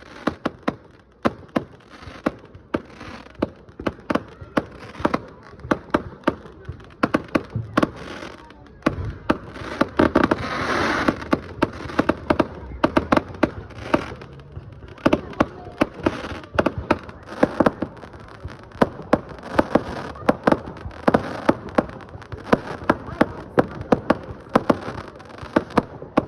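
Fireworks going off: rapid volleys of sharp cracks and bangs, with a denser crackling swell about ten seconds in.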